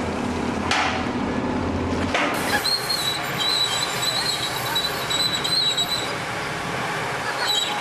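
A steady low engine hum for about two seconds, then an abrupt change to a noisy background with repeated short high-pitched squeals.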